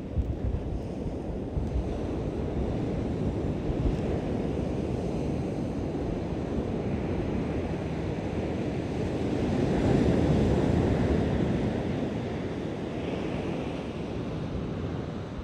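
Waves washing onto a beach: a steady surf wash that swells to its loudest about ten seconds in and then eases, with wind rumbling on the microphone.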